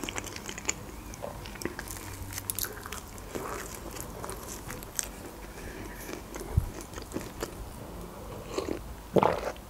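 Close-miked eating of cheese khachapuri: soft crunching of the bread crust and chewing mouth noises, in scattered small clicks. Near the end there is a louder sound as she sips from a mug.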